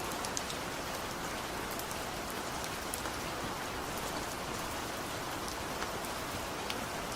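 Steady rain falling on a surface, an even hiss with scattered close drop ticks.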